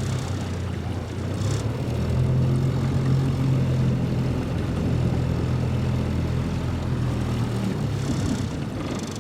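Small boat's outboard motor running steadily at low speed, a little louder about two seconds in and easing off near the end.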